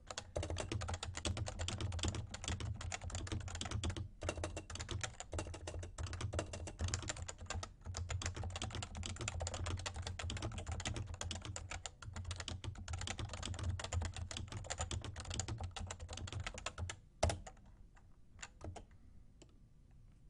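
Fast, continuous typing on a Realforce R2 tenkeyless Topre keyboard with 30 g electrostatic capacitive switches: a dense clatter of keystrokes. The typing stops about 17 seconds in with one louder clack, followed by a few scattered keystrokes.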